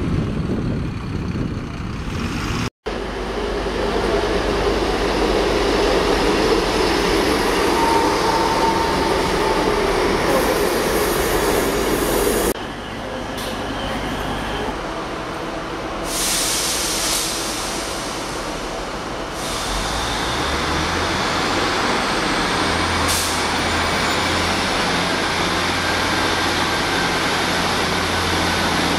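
A single-deck bus pulling away, then, after cuts, a Class 153 single-car diesel railcar at a station platform. In the second half its underfloor diesel engine runs with a steady low hum.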